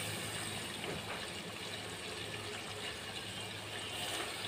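Raw chicken pieces sizzling in hot fried-down spice paste (masala) in a metal pot, a low, steady hiss.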